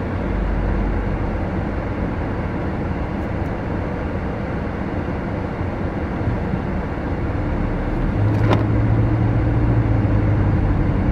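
Road and engine noise inside a car's cabin while driving slowly. A low drone gets louder about eight seconds in, with a single short click just after.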